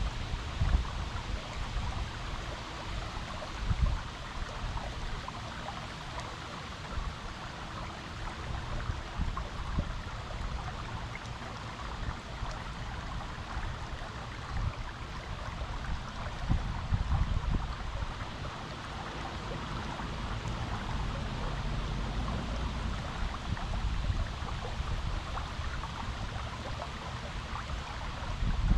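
Creek water flowing steadily over rocks, with uneven low rumbles swelling now and then, most strongly around the start and twice later on.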